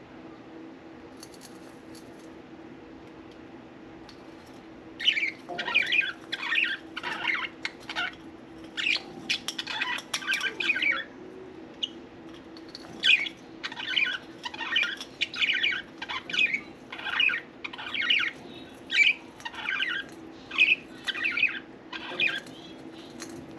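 Budgerigars chirping and chattering in quick, repeated calls that start about five seconds in and keep going densely.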